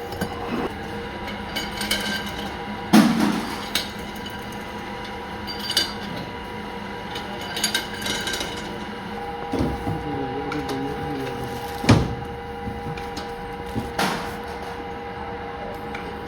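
Metalworking workshop sounds: scattered metal knocks and clanks over a steady machine hum, the loudest knocks about three seconds in and about twelve seconds in.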